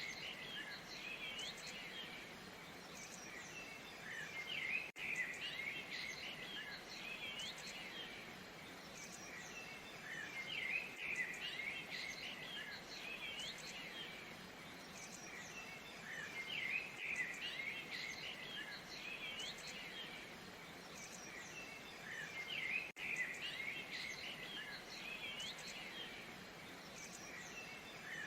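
Steady rush of a waterfall with bursts of small birds chirping and twittering that come back about every six seconds.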